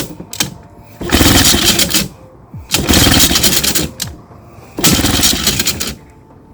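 Johnson 10 hp outboard being pull-started: three pulls of the recoil starter cord, each about a second of rapid chugging as the engine cranks over, with short pauses between. The engine does not catch.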